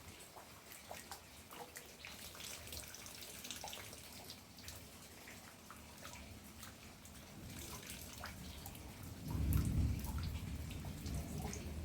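Rain falling, with scattered drops dripping and tapping in many small ticks. About nine seconds in, a low rumble comes in and stays, becoming the loudest sound.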